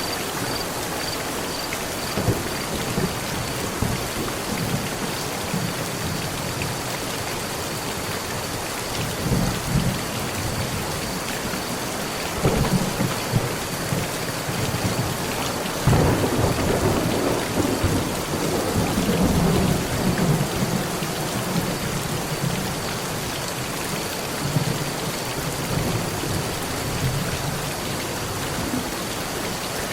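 Steady heavy rain falling on a metal roof, with rolling thunder: a rumble about twelve seconds in, then a louder, longer roll starting about sixteen seconds in that lasts several seconds.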